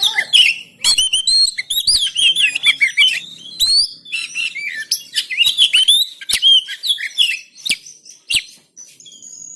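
Oriental magpie-robin (kacer) singing a fast, varied song of quick whistled notes that slide up and down, with sharp clicks between phrases. The song thins out in the last two seconds.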